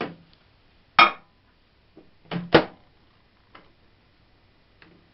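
Sharp knocks and clicks of a microwave oven's door and controls being worked by hand, the loudest about a second in and a pair about two and a half seconds in, then fainter ticks. There is no hum of the oven running, because it is not plugged in.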